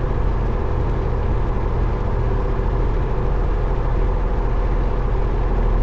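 A 1972 Cessna Skyhawk's piston engine running steadily at low taxi power, a constant low drone with no change in speed.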